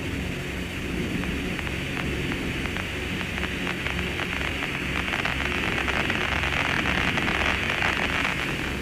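Radio static: a steady hiss over a low hum, with fine crackles that grow denser toward the end.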